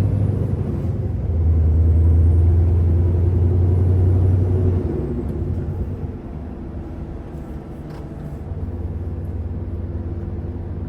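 Scania R660's 16-litre V8 diesel pulling a roughly 60-tonne load, a deep steady drone heard inside the cab. About five seconds in, the throttle eases off and the engine note drops and quietens.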